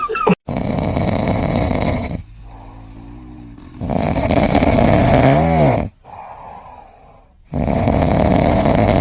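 A pet snoring loudly: three long snores about three and a half seconds apart. The middle snore ends in a whistle that rises and then falls in pitch.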